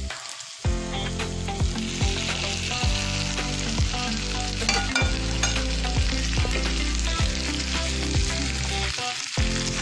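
Marinated chicken drumsticks sizzling as they go into hot coconut oil with an onion, chilli and tomato masala and are stirred with a wooden spatula, with light knocks about once a second. The sound drops out briefly just after the start and again near the end.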